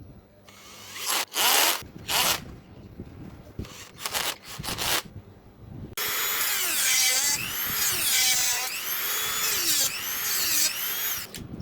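Small handheld power tool working on metal or plastic parts. First come several short bursts, then about five seconds of continuous running whose pitch dips and rises roughly once a second as it bears into the work.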